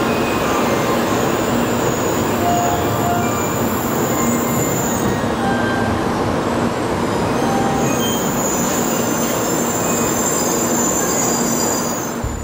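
Tokaido Shinkansen N700-series train moving along the station platform: a steady rush of wheels and running gear with a faint high whine. It fades out near the end.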